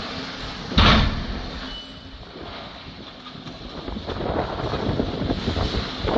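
Demolition of a building: a heavy crash about a second in, then a rough rumbling clatter that builds toward the end.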